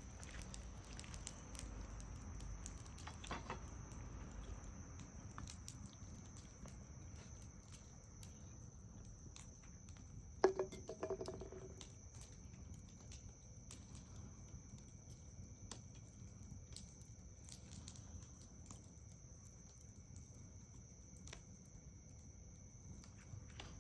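Quiet outdoor ambience: insects trilling steadily at a high pitch, with scattered small clicks and pops, likely a campfire crackling softly. One short, sharper sound stands out about ten seconds in.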